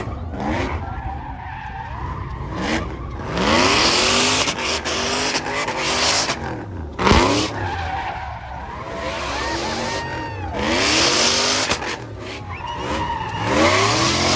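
Truck engines revving up and down again and again, with loud swells of tire squeal from burnouts.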